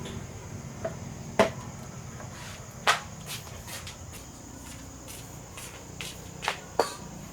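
Irregular sharp knocks and taps, the two loudest about a second and a half apart and another pair near the end, over a steady high-pitched hum like insects.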